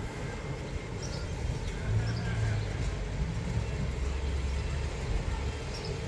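Miniature steam train on the 15-inch-gauge line, running with a steady low rumble that swells a little about two seconds in.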